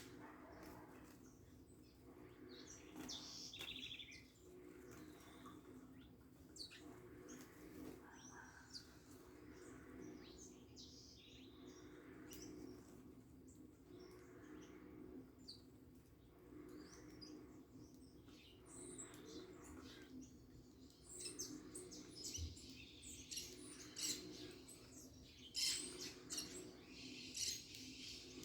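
Faint small-bird chirps and short calls, scattered and growing busier and louder over the last few seconds, with brief wing flutters, over a faint steady low hum.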